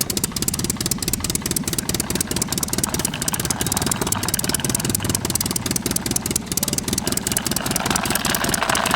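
Small engine of a DIY model mini tractor running with a rapid, even putter, growing a little brighter near the end.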